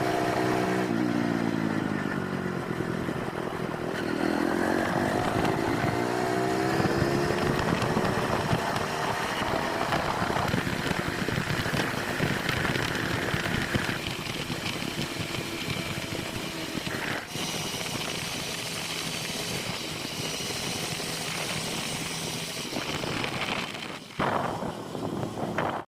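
Motorcycle engine running on the move, its pitch rising and falling with the revs. The sound changes abruptly a few times, as if separate stretches of riding were cut together.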